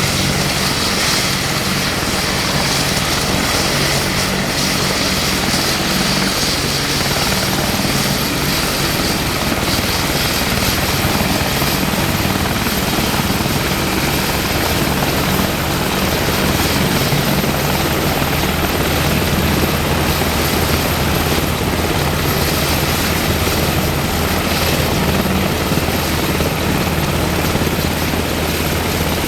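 UH-60M Black Hawk helicopter running with its twin turboshaft engines and rotor turning, a loud, steady turbine and rotor noise with a thin high-pitched whine over it.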